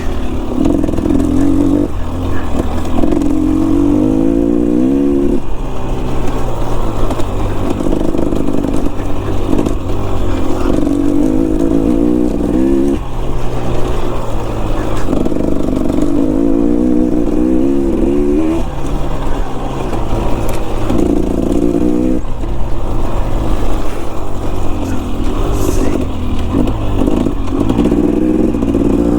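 Enduro dirt bike engine being ridden hard, its pitch repeatedly climbing as the throttle is opened for a few seconds at a time and then dropping off, about seven pulls in all, over a steady low rumble.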